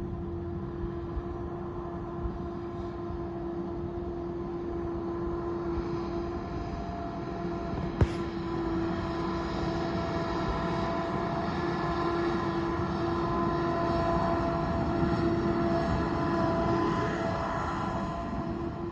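Tractor engine running steadily with a constant whine over a low rumble, slowly growing louder and then easing off near the end. A single sharp click about eight seconds in.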